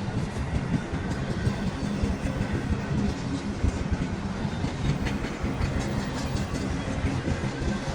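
Train rolling past, its wheels clicking over the rail joints, over a steady low drone.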